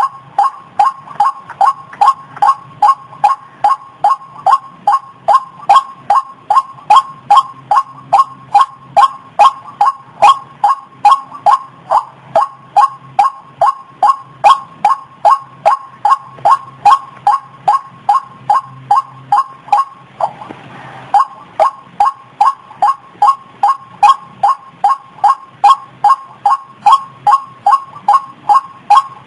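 White-breasted waterhen calling over and over in a steady, even rhythm of about two short notes a second. About two-thirds of the way through, the calls stop for about a second and there is a brief hiss.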